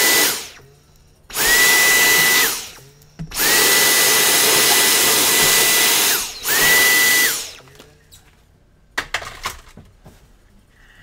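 Small vacuum cleaner picking up glass shards, switched on and off in four short runs, with a steady high whine that rises briefly as the motor spins up each time. A few light clicks follow near the end.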